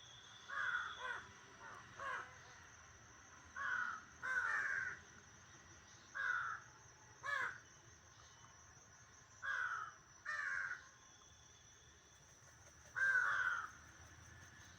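Crows cawing: about ten harsh caws, singly and in pairs, at irregular gaps, with the loudest near the end.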